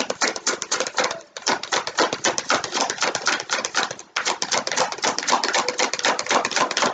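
A deck of tarot cards being shuffled by hand: a fast run of dry clicks and slaps, broken briefly about a second in and again about four seconds in.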